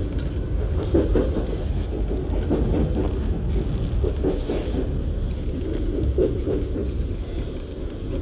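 Rumble of a narrow-gauge Yokkaichi Asunarou Railway train running along the line, heard from inside the car, with wheels on the rails clattering unevenly.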